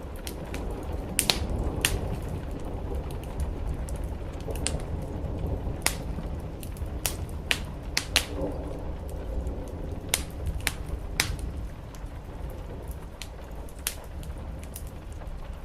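Wood fire crackling, with about a dozen sharp pops at irregular intervals over a steady low rushing background.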